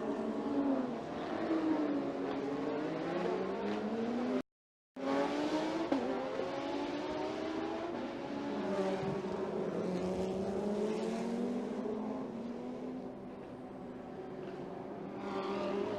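GT race car engines running at speed, their pitch rising and falling as they rev and shift through the gears. The sound cuts out completely for about half a second, around four and a half seconds in.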